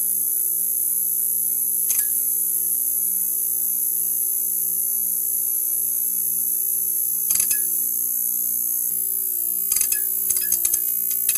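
Neon sign buzzing: a steady electrical hum under a high hiss, broken by short crackles about two seconds in, around seven seconds in, and a quick cluster of them near the end.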